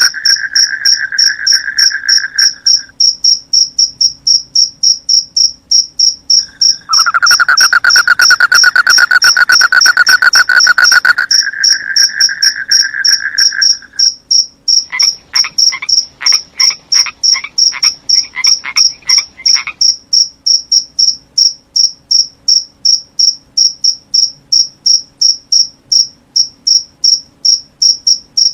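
Crickets chirping steadily at about two to three high chirps a second, with frogs calling: a lower, continuous trill at the start and again in the middle, then a run of short pulsed calls a little past halfway.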